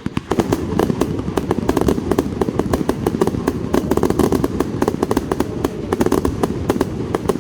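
Fireworks display going off: a dense run of rapid crackling pops over a continuous low rumble that swells up just after the start.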